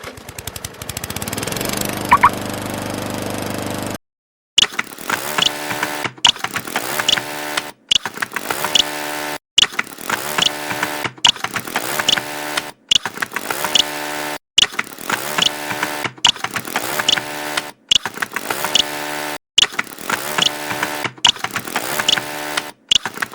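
Lawn mower sound effect: a small engine starting and running, cut off and restarted about every second and a half.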